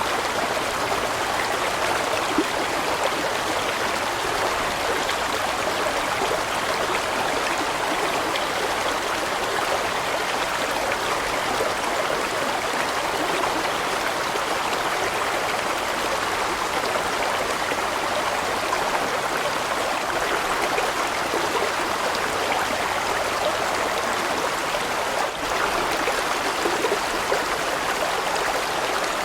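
Water of a large mountain stream rushing steadily over rocks, a continuous even flow with no breaks.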